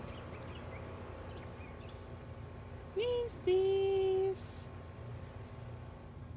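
A voice calls out twice: a short call that rises and falls, then a longer call held on one steady pitch, over faint background noise.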